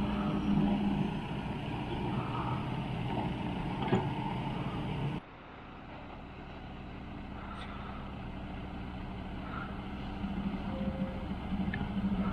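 A motor vehicle engine running with a steady low hum. The sound drops suddenly about five seconds in, then slowly grows louder again.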